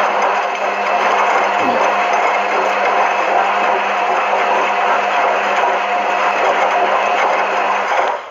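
Washing machine running with its motor's steady whirring hum, unchanging throughout.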